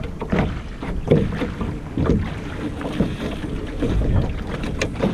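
Wind buffeting the microphone over water slapping and splashing against the hull of a small sailboat under way, with irregular gusty rumble and occasional knocks.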